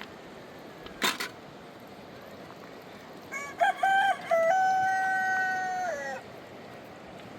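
A rooster crowing once: a few short broken notes, then a long held note that drops away at the end. About a second in, two quick sharp knocks come just before it.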